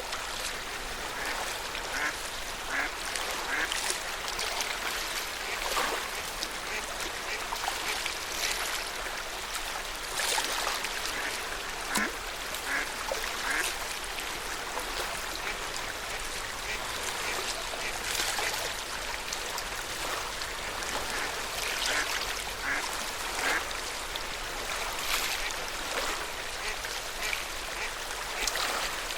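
Small waves lapping at the lake shore: a steady wash broken by irregular short splashes, about one or two a second.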